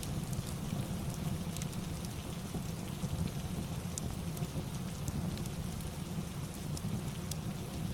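Steady rain ambience with a low rumble beneath it, mixed with the scattered sharp crackles of a fireplace.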